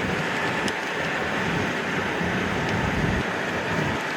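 Steady road and wind noise inside a moving car's cabin, a constant rumble and hiss.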